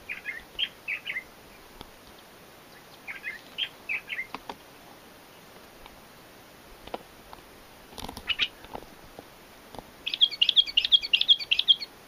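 Birds singing: a short phrase of three or four high whistled notes given twice, a few faint clicks, then a rapid run of high chattering notes near the end, the loudest part.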